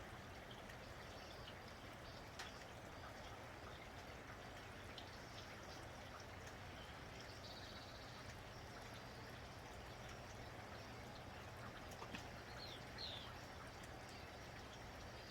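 Steady, faint rain falling, with a few sharp drips and a few short, high bird chirps, two in quick succession about 13 seconds in.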